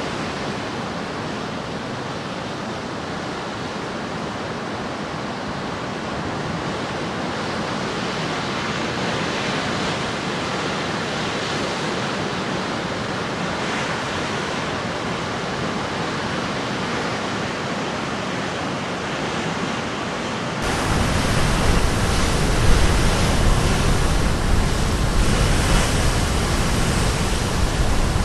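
Sea surf washing steadily on the shore, an even hiss of waves. About 21 seconds in the sound changes abruptly to a louder, deeper rumbling wash.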